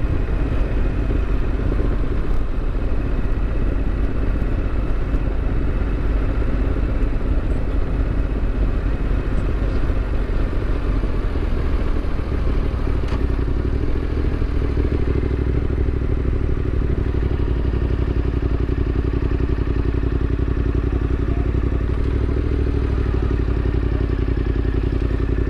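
Yamaha Ténéré 700's parallel-twin engine running steadily as the motorcycle rolls along at low speed; its note settles into a steadier drone about halfway through.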